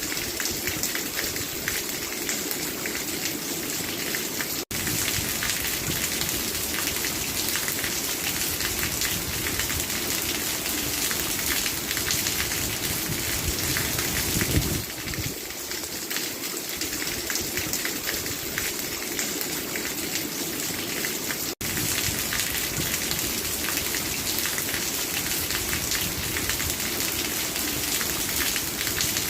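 Steady rain falling, a dense even patter of drops on a surface. The sound drops out for an instant twice, about 5 and 22 seconds in.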